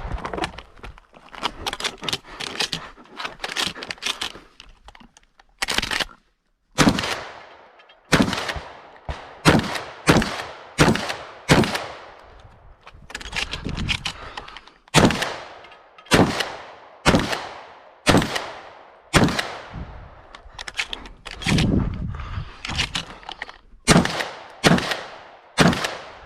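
Shotgun fired in a long string of shots, about one to two a second with short pauses between groups, each shot followed by a brief ringing tail.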